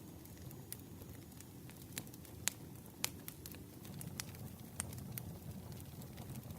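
Campfire crackling: irregular sharp pops and snaps of burning wood over a steady low rumble of the flames. The sharpest snaps come about two and a half and three seconds in.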